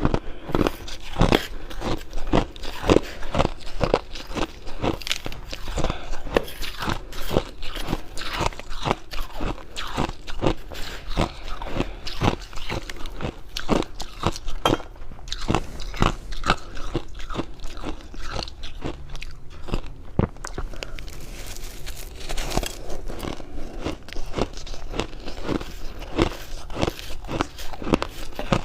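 Close-miked biting and chewing of fluffy freezer frost: a continuous run of dry crunches, several a second.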